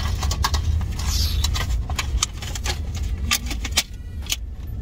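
Car engine idling as a steady low hum inside the cabin, with scattered sharp clicks and crackles of plastic food boxes being handled and food being eaten.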